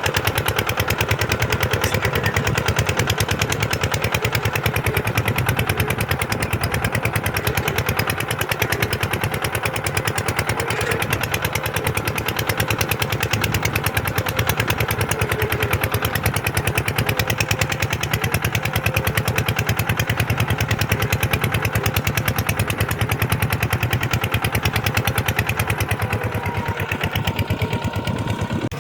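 Kubota diesel tractor engine running steadily with a fast, even beat, pulling through sandy ground while plowing.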